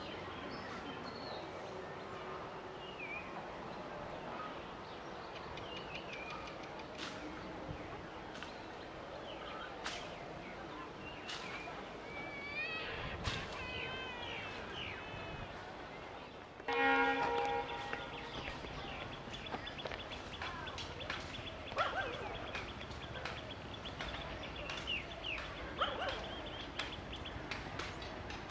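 Outdoor ambience with birds chirping now and then. About 17 seconds in comes a single loud, pitched tone lasting about a second, followed by a thin, high, steady tone for several seconds.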